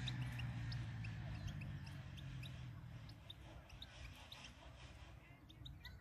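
Small songbirds chirping: short, high calls scattered throughout, over a faint low hum that slowly fades.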